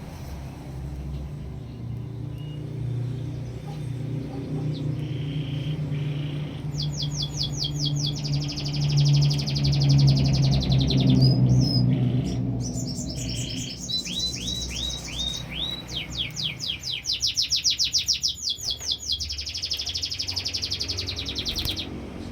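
Canary singing bouts of fast, evenly repeated trill notes, starting about a third of the way in and ending shortly before the end. Under the song a low rumble swells and fades in the first half.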